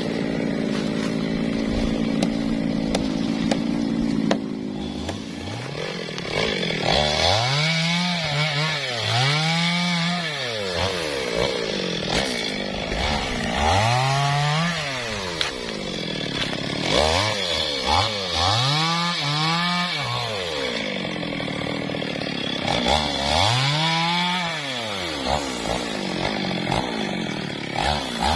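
Two-stroke chainsaw running at a steady speed, then revved up and down over and over, each rev rising and falling in pitch over about a second, in bursts of two or three.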